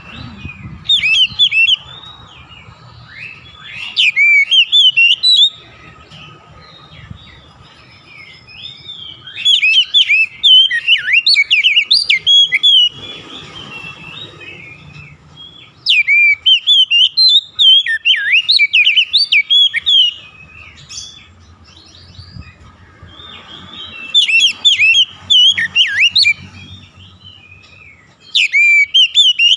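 Oriental magpie-robin (kacer) singing: bursts of rapid, varied whistled phrases a few seconds long, about five of them, separated by short pauses. A faint steady tone runs underneath.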